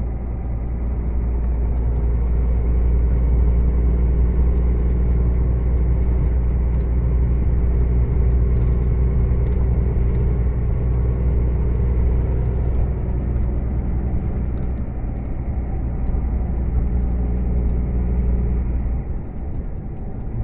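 Heavy truck's engine droning steadily from inside the cab while driving, with road noise; it eases slightly near the end.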